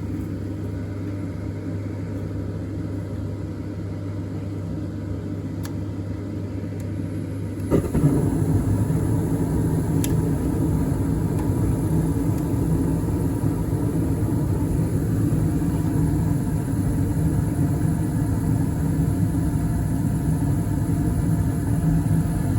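Newly installed PVC-vented gas furnace starting up: a steady motor hum, then about eight seconds in the burners light with a sudden whoosh and the sound steps up to a louder, steady rumble of the firing furnace.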